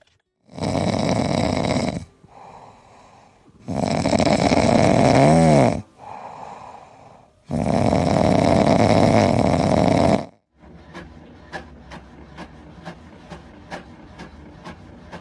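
Loud snoring: three long breaths of about two seconds each, with quieter breaths between them. Then a run of faint, regular ticks through the last few seconds.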